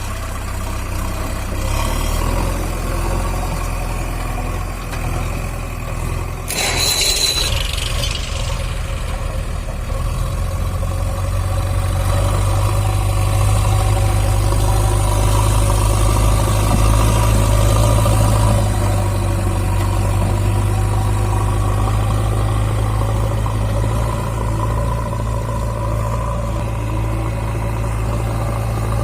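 JCB 3DX backhoe loader's diesel engine running steadily, getting louder from about ten seconds in. About seven seconds in there is a brief high hiss with a whistle in it.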